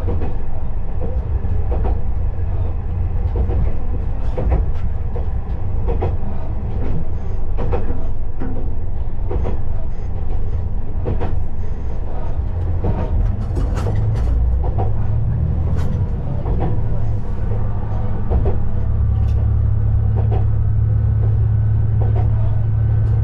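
KiHa 20 diesel railcar running along the line: a steady low engine and running drone with irregular clicks and knocks of the wheels over the rails. About two-thirds of the way in the low drone grows stronger and steadier.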